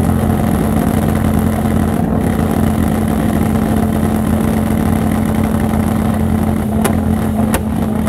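Fox-body Ford Mustang GT's V8 revved up and held at a steady high pitch, with a few sharp cracks near the end.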